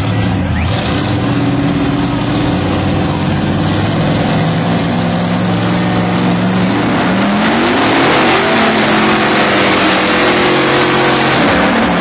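Monster truck engine running hard at high throttle during a pull; its pitch climbs about seven seconds in and it is loudest until it drops away near the end.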